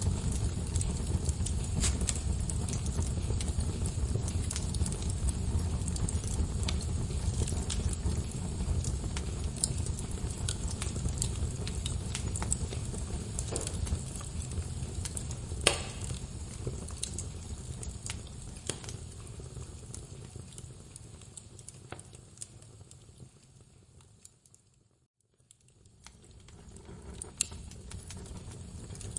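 Wood fire crackling in a fireplace: scattered sharp pops and snaps over a steady low rumble of burning logs. About three-quarters of the way through, the sound fades almost to silence, then fades back in.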